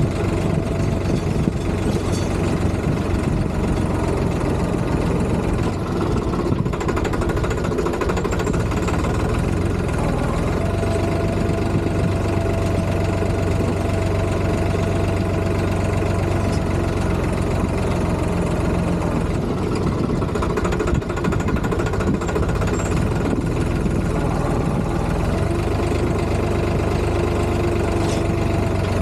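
Tractor engine running steadily, its note holding even with only a slight shift in pitch about ten seconds in.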